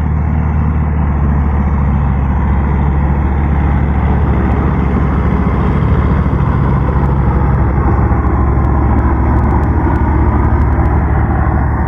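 Tractor diesel engine running loud and steady.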